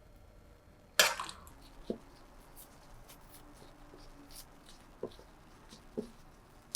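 Kitchen tools being handled: one sharp clack about a second in, then a few lighter knocks and faint clicks spread over the next several seconds.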